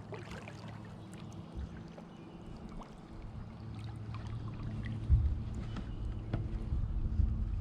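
Kayak paddling: water dripping and trickling off the paddle, with small splashes and light clicks. A low rumble builds about five seconds in.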